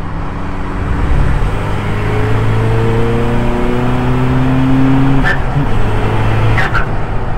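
Diesel Audi TT race car's 2.0 TDI engine pulling under acceleration, heard from inside the cabin, its note climbing steadily. It then drops twice, about five and six and a half seconds in, as the driver shifts up, each shift marked by a short sharp click.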